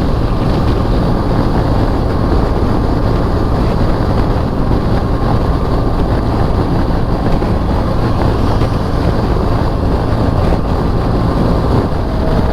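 Steady wind rush buffeting the microphone on a motorcycle at motorway speed, with the BMW R1200 GS's boxer-twin engine running evenly underneath.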